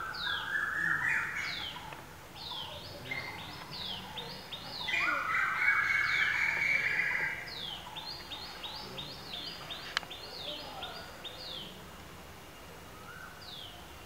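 Birds calling: short high notes, each sliding downward, repeated over and over, with louder, lower sounds about a second in and again around the middle. A single sharp click about ten seconds in.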